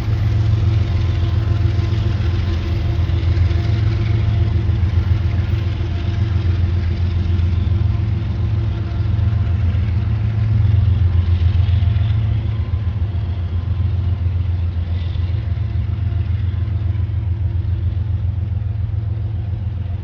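Large diesel engine idling steadily: a deep, even drone with a fast regular throb and a faint steady whine above it, typical of a diesel locomotive sitting at the platform.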